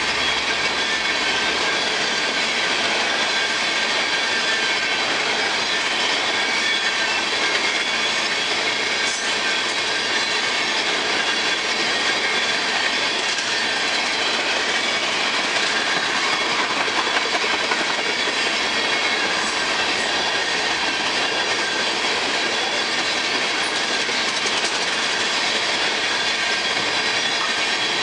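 Empty oil tank cars of a freight train rolling past at steady speed: a continuous rumble of steel wheels on rail with rhythmic clicking over the rail joints and a faint high wheel squeal.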